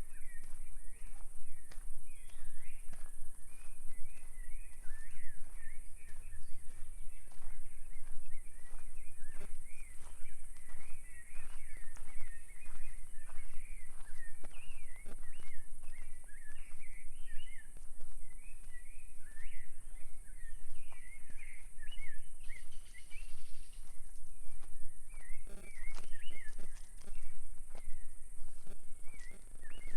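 Several birds chirping and singing without a break, in quick short notes that rise and fall, over a steady high insect buzz. Footsteps crunch along the forest path underneath.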